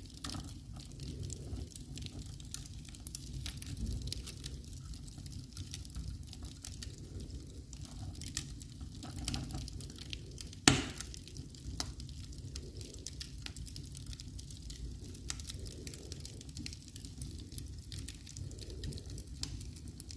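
Wood fire in a fireplace crackling, with many small irregular snaps over a low rumble of the flames and one loud pop about halfway through.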